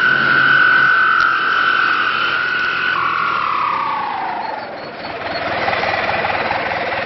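Fiat 640 tractor's diesel engine with a whistling exhaust: a steady high-pitched exhaust note that falls in pitch about three seconds in as the revs drop, settling into a lower, pulsing note as the engine slows toward idle.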